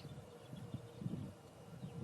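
Faint outdoor ambience: irregular low rumbles with a few faint, short high chirps.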